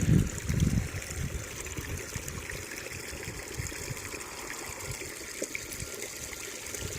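Water trickling and splashing down a pondless waterfall, the flow just started by its pump. A few low bumps in the first second.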